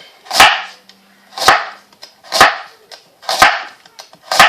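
Kitchen knife slicing through a raw carrot onto a cutting board, five even cuts about one a second, each a sharp crunch.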